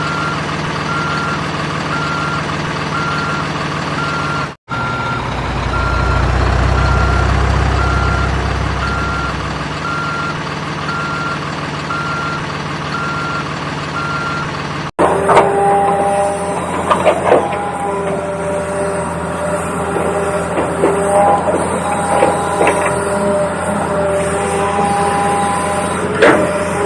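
Toy RC construction vehicle's sound module playing a simulated truck engine with an evenly pulsing reversing beep, the engine swelling for a few seconds in the middle. After an abrupt change about 15 s in, other electronic toy tones switch on and off, with light clicks and knocks of plastic parts.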